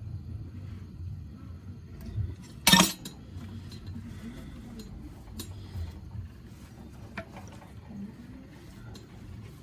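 Small metal chainsaw parts and tools handled on a workbench: scattered light clinks and clicks, with one sharp, loud clank a little under three seconds in.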